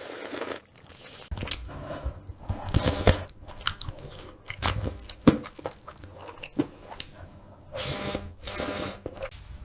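Close-miked eating of seafood: irregular wet chewing, crunches and bites.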